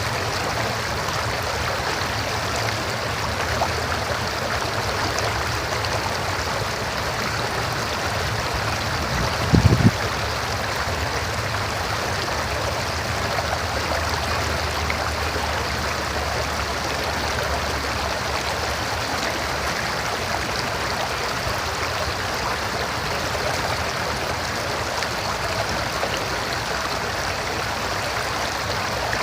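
River water flowing in a steady, continuous rush, with one brief low thump about ten seconds in.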